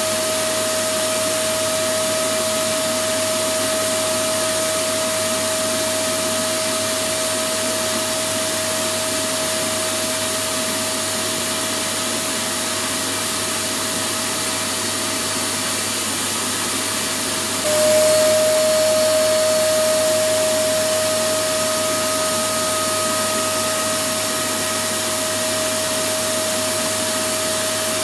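Electric vacuum cleaner running steadily: a constant rushing noise with a high motor whine. About eighteen seconds in it gets a little louder and the whine drops slightly in pitch, then slowly settles back.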